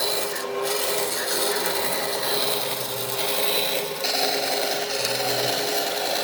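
A power tool abrading wood with a steady rasping, rubbing noise, as in sanding or grinding a wooden piece, with a short dip about four seconds in.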